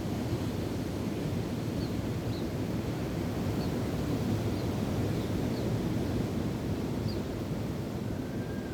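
Steady wind and surf, a low even rush, with faint short high bird chirps scattered through it and a thin whistled note near the end.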